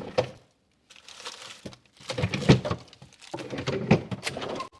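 Things being moved about while rummaging in a kitchen: a run of short knocks, clatters and rustles in several bursts.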